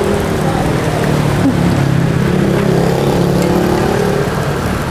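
A motor vehicle's engine running close by, its pitch rising and falling slightly, over street noise.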